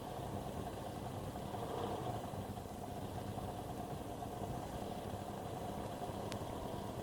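Engine idling steadily, with a single short click about six seconds in.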